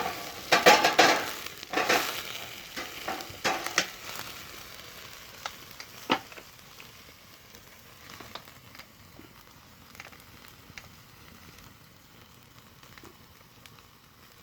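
Meat sizzling as it cooks, with a few loud knocks and scrapes in the first four seconds, then a fainter sizzle with scattered pops.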